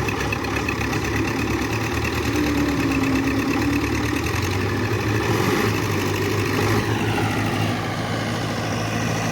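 Tractor diesel engine running steadily, with a whine that falls in pitch about seven seconds in.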